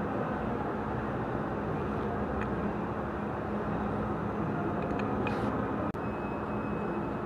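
Kubota D905 three-cylinder diesel engine running steadily.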